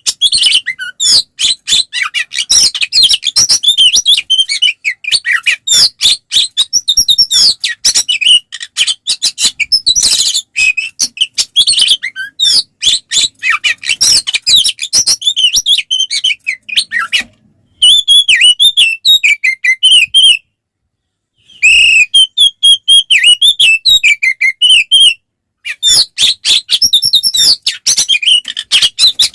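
Oriental magpie-robin (kacer) singing a loud, fast, varied song of whistles and chattering notes in its aggressive fighting mode, the kind of song used to provoke other magpie-robins. It stops briefly a few times in the second half.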